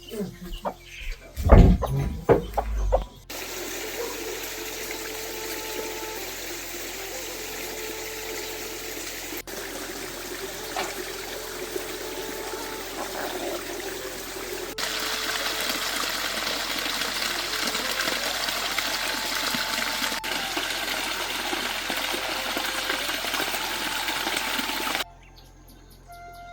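Steady rushing water noise that steps louder about halfway through and cuts off abruptly near the end. A few loud thumps open it, and chickens cluck faintly under the water.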